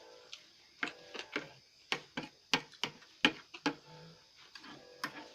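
Close-up eating sounds while eating noodles and rice: a quick run of about ten sharp clicks and taps over about three seconds, then a few quieter ones.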